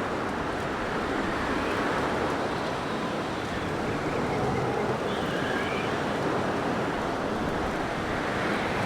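Blizzard wind blowing steadily, a dense rushing noise, with faint high whistling tones that rise and fall about halfway through.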